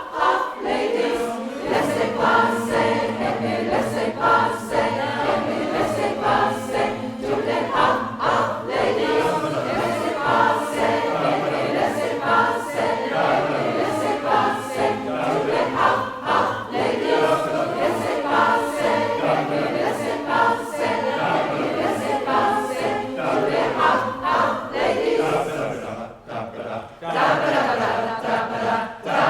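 Community choir singing together in harmony, with a brief break in the singing near the end.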